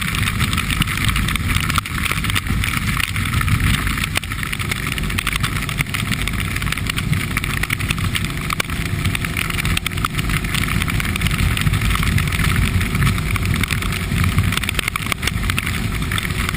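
Motorcycle engine running steadily while riding, mixed with continuous wind and road noise on the microphone.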